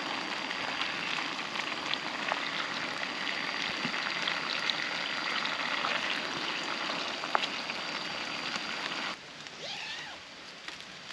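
Steady rain falling, with many individual drops ticking sharply over the hiss. About nine seconds in it drops suddenly to a quieter rain.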